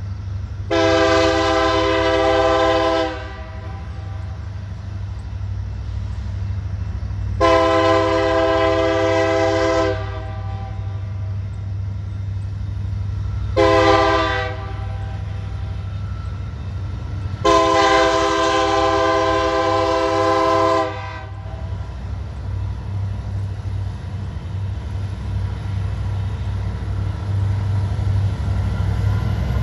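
Diesel locomotive air horn sounding the grade-crossing signal: two long blasts, one short, one long, each a chord of steady tones. Under it runs a continuous low rumble of engines that grows a little louder near the end as the train approaches.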